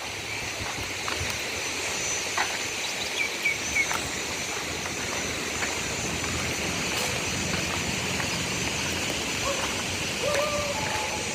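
Steady outdoor hiss with a few short bird chirps about three seconds in and more calls near the end.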